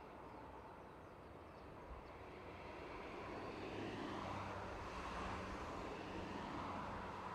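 Freight train headed by a JR Freight EF210 electric locomotive approaching along the track, its running noise growing steadily louder, with a steady hum coming in past the halfway point.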